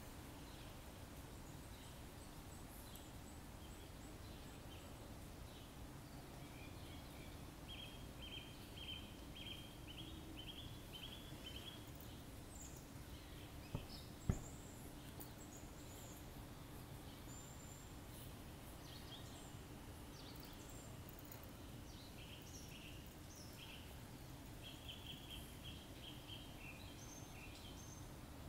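Faint outdoor ambience in which a bird gives a quick run of evenly spaced chirps twice, about a third of the way in and again near the end. Two sharp knocks just before halfway, the loudest sounds, as the glass radiometer on its base is handled on the paving.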